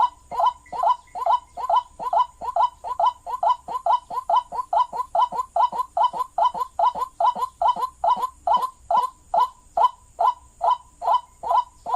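White-breasted waterhen (ruak-ruak) calling: an unbroken run of short, hoarse notes, about three a second, of the kind played as a lure call to draw the birds in.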